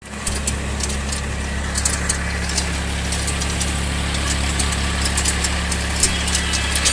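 Force Orchard mini tractor's diesel engine running at a steady speed, with irregular light clattering ticks over it.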